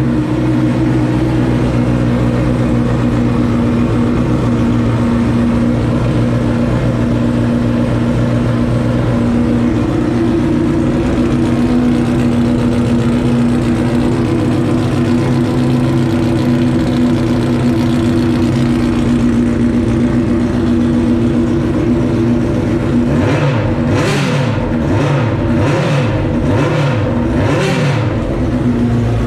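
Benelli 600 motorcycle's inline-four engine running through a new exhaust, idling steadily. In the last few seconds it is blipped six or seven times in quick succession.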